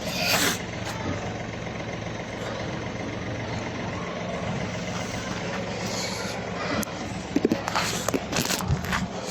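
A vehicle engine idling steadily, with a few short scrapes and knocks about six seconds in and again shortly after.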